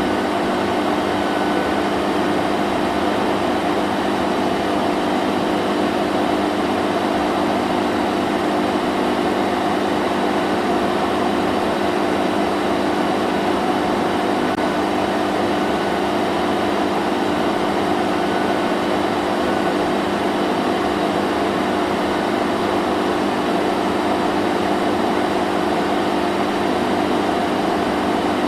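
Vacuum cleaner running steadily: an even rushing of air over a constant motor hum, with no change in pitch or level.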